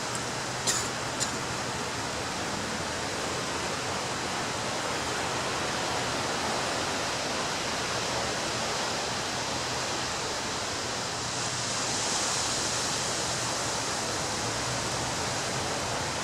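Ocean surf washing steadily onto a beach, with a wave breaking and swelling louder about eleven seconds in. Two brief clicks come about a second in.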